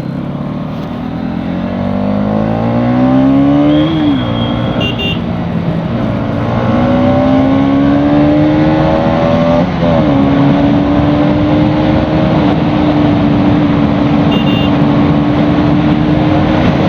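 Bajaj Pulsar NS200's single-cylinder engine pulling up through the gears: its pitch climbs, drops at an upshift about four seconds in and again about ten seconds in, then holds steady at cruising speed, over steady wind noise.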